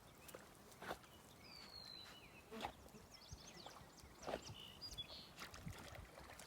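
Quiet outdoor ambience by the water: a few faint bird chirps and several soft, isolated knocks.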